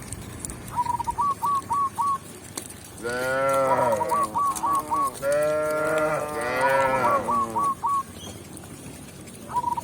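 Domestic cow mooing twice in a row: two long, drawn-out moos about three and five seconds in, each rising and then falling in pitch.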